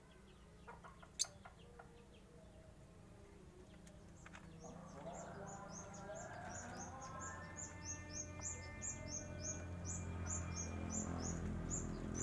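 Cage birds calling: from about five seconds in a rapid series of short high chirps, roughly three a second, over lower calls, growing louder; a single sharp click about a second in.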